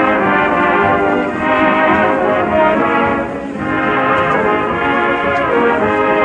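Radio studio orchestra playing the show's opening theme, brass to the fore with full sustained chords, heard through an old broadcast recording.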